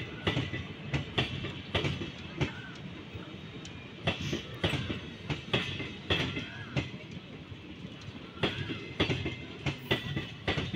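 Indian Railways passenger coaches passing close by at speed: a steady rumble with the wheels clattering over the rail joints in quick groups of clacks.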